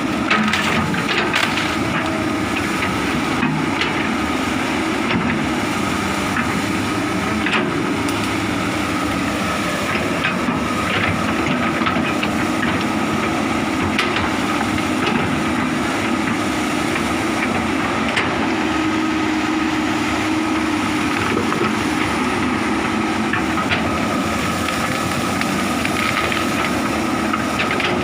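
Komatsu hydraulic excavator running steadily under load, with a constant high whine and scattered knocks and cracks as it works through piled timber and brush.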